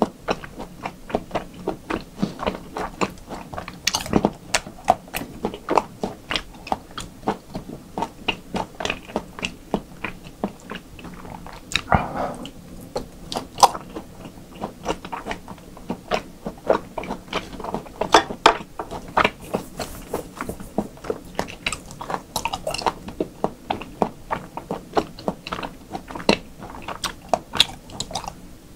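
Close-miked chewing of raw beef and beef tartare (yukhoe): a steady run of wet mouth clicks and smacks as the meat is chewed, with a few louder smacks along the way.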